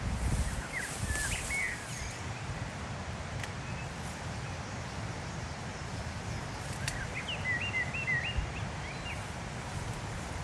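Outdoor ambience: a steady low rumble of wind on the microphone, with a small bird chirping in two short bouts, near the start and again later.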